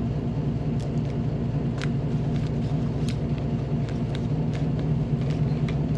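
A steady low rumble, with a few faint sharp clicks over it.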